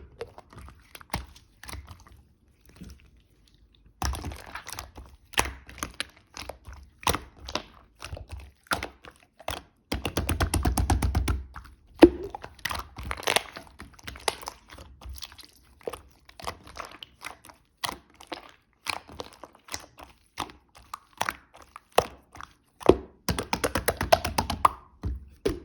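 White slime being squeezed, poked and folded by hand, making sticky clicks and small air-bubble pops at an irregular pace. A run of rapid crackling pops comes about ten seconds in and again near the end.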